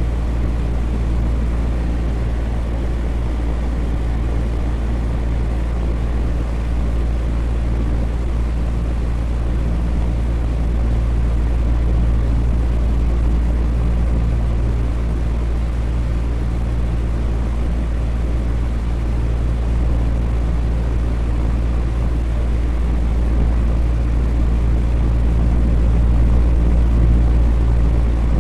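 Electric fan running steadily: a constant deep hum under an even rush of air.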